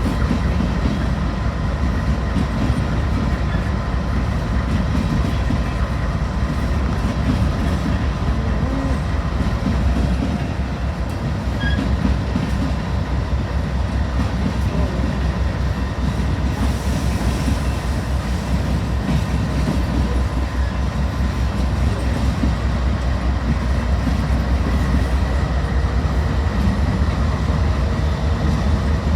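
Freight train rolling past: a steady rumble of steel wheels on the rails with a clickety-clack over the rail joints, under a thin steady whine.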